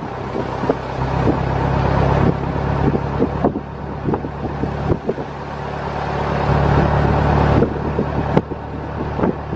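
1924 Dodge Brothers tourer under way: its four-cylinder side-valve engine runs under load amid wind, road noise and body rattles. The engine note builds for a few seconds and then drops suddenly about two seconds before the end, with a sharp click shortly after.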